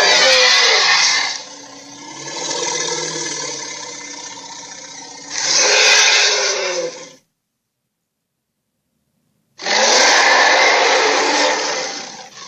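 Sound-effect roars of a giant ape: one long roar of about seven seconds that drops quieter in the middle and swells again, then a pause of about two seconds and a second, shorter roar.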